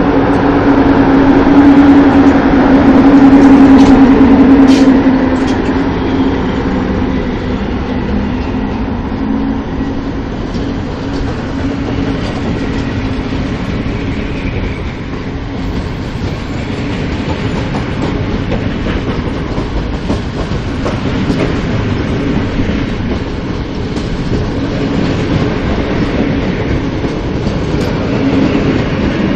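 Departing train of an EP07 electric locomotive and passenger coaches rolling past at close range: a loud low hum as the locomotive goes by in the first few seconds, then steady wheel-on-rail rumble with clickety-clack as the coaches pass.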